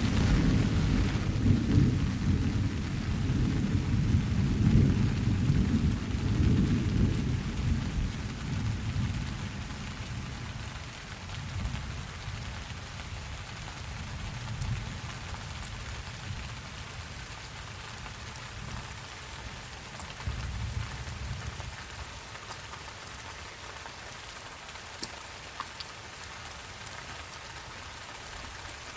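Steady rain falling, with a long roll of thunder at the start that rumbles for several seconds and fades out by about ten seconds in. A fainter, shorter rumble comes about two-thirds of the way through.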